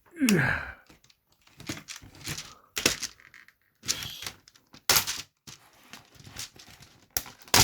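Plastic computer keyboard case being forced apart by hand, with repeated sharp cracks and snaps as its clips and housing give way. A short falling creak comes just after the start.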